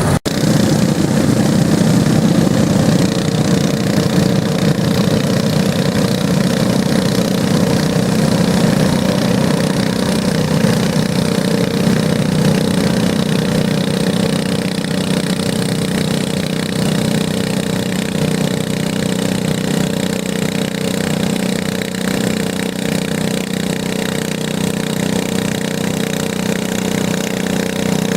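Garden tractor engine running loud and steady while pulling the weight sled, getting slowly quieter as it goes.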